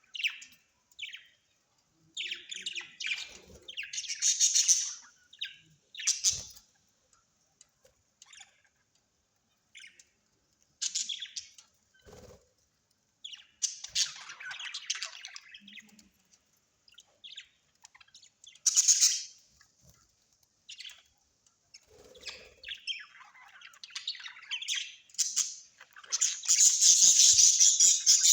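Birds chirping and squawking in short bursts of high-pitched calls with brief silences between them, breaking into a louder, continuous run of chatter near the end.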